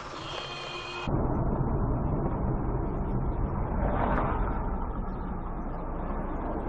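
Dashcam audio from inside a moving car: steady low engine and road rumble, with a brief louder swell about four seconds in. It starts abruptly about a second in, after a short stretch of music.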